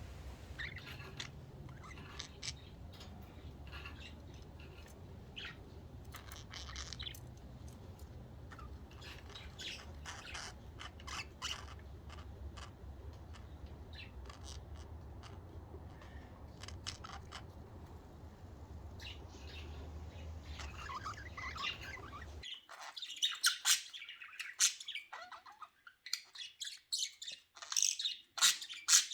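Budgies chirping in many short calls over a steady low hum. The hum cuts off suddenly about three-quarters of the way through, and after that the chirps come louder and closer together.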